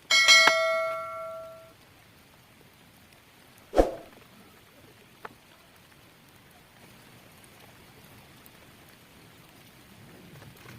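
A metal object is struck and rings out with several clear tones, fading over about a second and a half. A single sharp knock follows about four seconds in, then only a faint hiss of drizzle.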